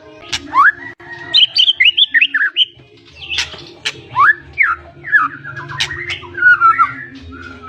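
Pied (blorok) white-rumped shama singing a loud, varied run of whistled phrases, quick downslurred notes and fast trills. A few sharp clicking notes fall among them, with a steady low hum underneath.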